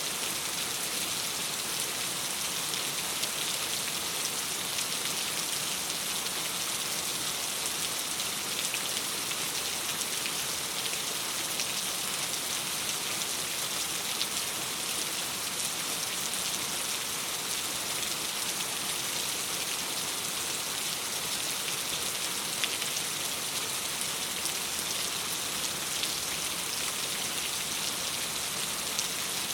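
Steady rain on a window pane: an even hiss with faint scattered ticks of drops.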